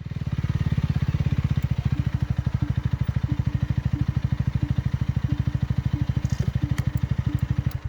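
Motorcycle engine idling, a low, even pulsing of about ten beats a second that cuts off abruptly near the end.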